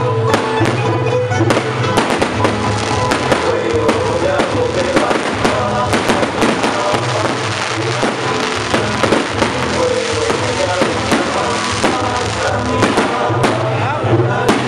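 Fireworks going off in rapid succession, many sharp bangs and crackles, thickest through the middle, over loud music with a steady bass line.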